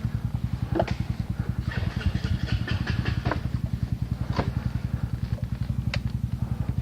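A low engine-like drone with a fast, even pulse runs steadily throughout, with a few short sharp clicks or snaps over it.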